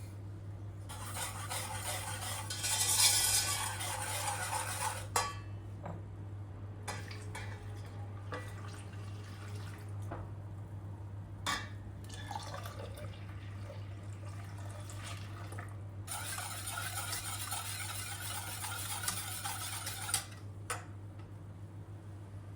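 Kitchen work: liquid running or being poured in two spells of a few seconds each, with dishes and utensils clinking in between, over a steady low hum.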